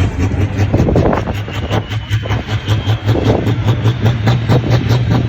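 Tractor engine running hard under load, a steady low pulsing drone that rises slightly in pitch toward the end.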